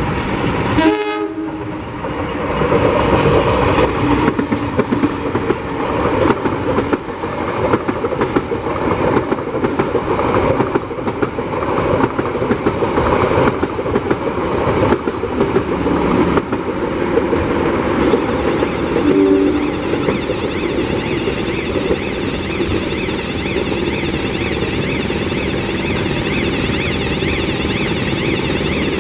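Passenger train passing close by, its wheels clattering over the rail joints. The clatter gives way to a steadier running sound in the last third.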